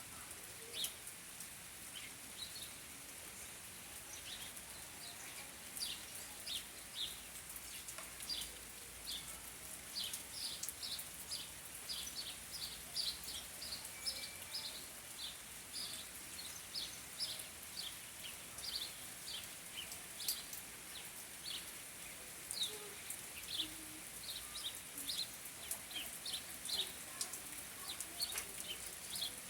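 Birds calling outdoors: many short, sharp chirps coming in quick irregular runs, busier from about a third of the way in, over a steady high hiss.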